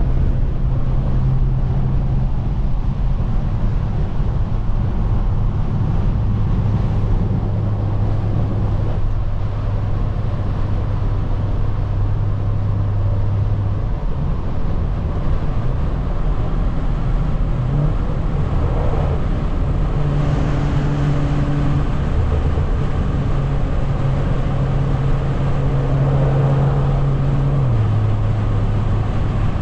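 Straight-piped BMW 340i's turbocharged 3.0-litre straight-six at steady cruising revs, with a constant exhaust drone over road noise. The drone's pitch steps down about halfway through, up again a few seconds later, and down once more near the end.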